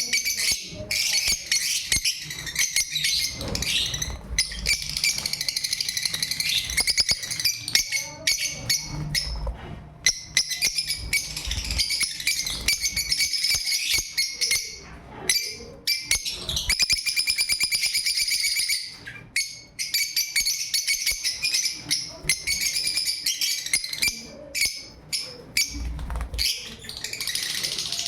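Pet lovebirds chattering: rapid, high-pitched chirps and twitters running almost continuously, broken by a few short pauses.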